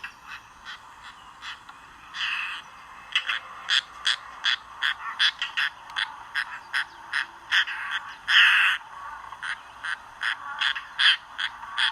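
European roller giving a rapid series of short, harsh, croaking calls, about two to three a second, with a couple of longer harsh calls among them, the loudest about eight seconds in.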